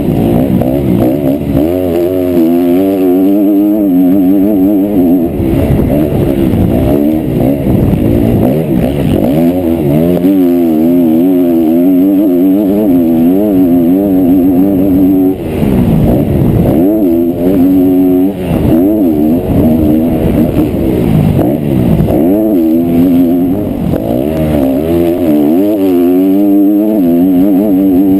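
Motocross bike engine heard from on the bike during a race lap, its revs rising and falling continuously as the throttle is worked and gears change. About halfway through the revs drop away briefly, then climb again.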